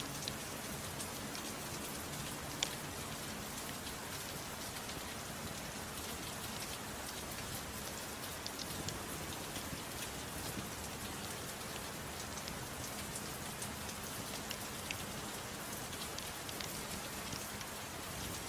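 Steady gentle rain falling, an even hiss, with a few faint ticks scattered through it.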